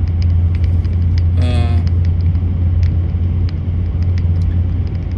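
Steady low rumble of a truck running, heard from inside the cab.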